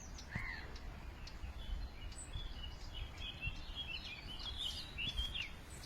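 Birdsong outdoors: a single harsh call, like a crow's caw, just after the start, then a songbird's quick, twittering phrases from about two seconds in, over a low steady rumble.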